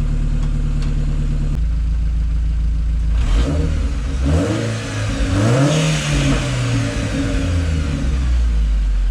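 Dodge Caliber SRT-4's turbocharged 2.4-litre four-cylinder, with a catless downpipe and its exhaust cutout blocked off, idling and then revving up and dropping back down over a few seconds.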